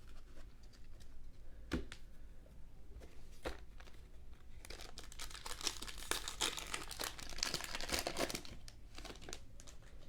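A trading card pack's foil wrapper being torn open and crinkled: a couple of sharp clicks, then several seconds of dense crinkling from about halfway through.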